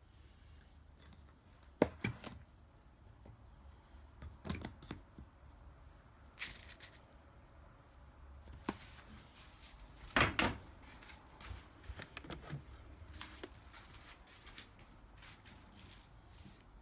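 Scattered light knocks and clicks, handling noises in a small quiet room, the loudest about two seconds in and again near the middle.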